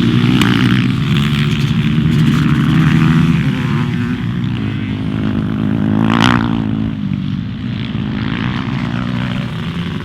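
Racing motorcycle engines running hard on an ice track. About six seconds in, one passes close with a brief rise and fall in pitch.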